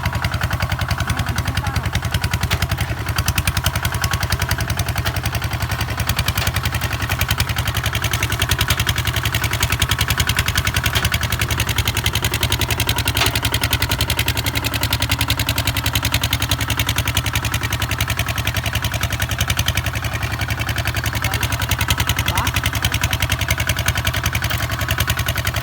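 Kubota ZT 155 DI single-cylinder diesel engine running steadily, with a rapid, even beat.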